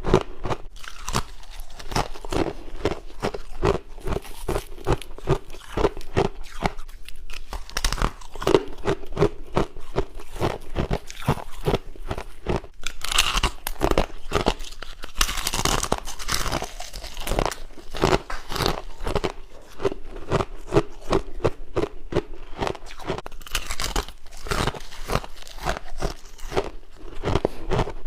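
A person chewing crunchy ice frost close up: rapid, continuous crunching bites.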